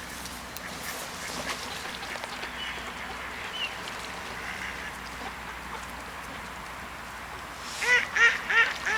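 Ducks calling: faint scattered calls over a steady background hiss, then a quick run of four loud calls near the end.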